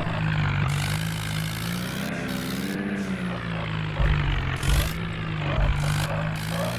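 Tractor engine running steadily, its pitch slowly rising and falling as the revs change, with a couple of low thumps a little over halfway through.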